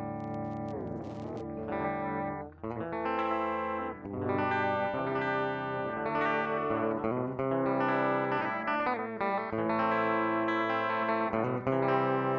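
Electric guitar played through a vintage MXR 113 digital delay: sustained chords ring out, each change every second or two blending into the echoing tail of the one before.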